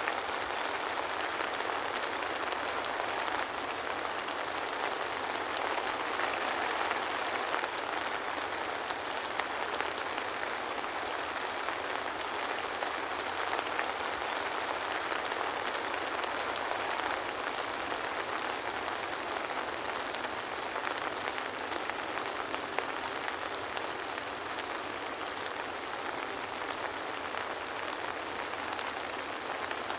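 Steady soft rain falling, an even hiss with scattered drops pattering on a surface, no thunder.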